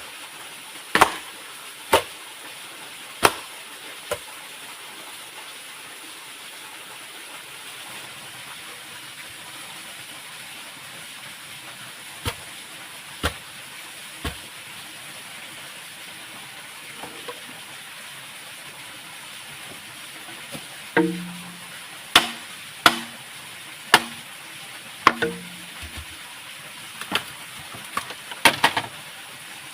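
Sharp, irregular chopping strikes of a blade on wood, over a steady hiss of rushing water. There are four strikes in the first few seconds, three more spaced ones about twelve to fourteen seconds in, then a quicker run of a dozen or so in the last third, a couple of them with a short hollow knock.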